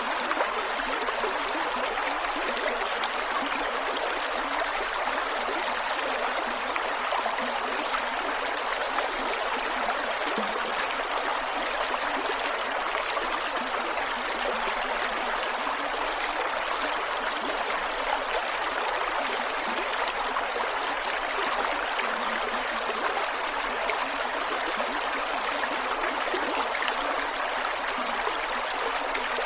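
Creek water flowing steadily over rocks, with trickling and gurgling.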